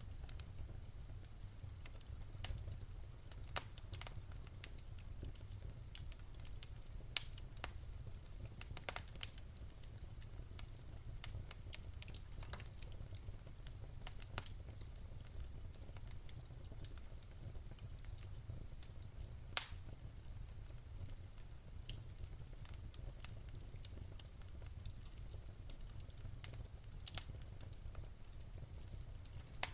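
Wood fire crackling in a fireplace: irregular sharp pops and snaps from burning logs, a few louder ones scattered through, over a steady low rumble.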